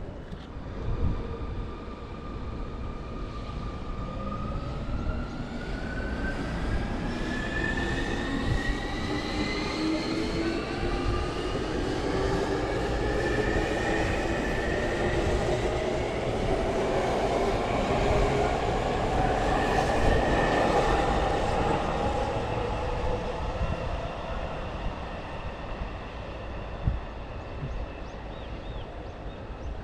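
Electric commuter train pulling out of the station, its traction motors whining in several tones that rise steadily in pitch as it gathers speed, over the rumble of the wheels on the rails. The sound grows louder until about two-thirds of the way through, then fades as the train draws away.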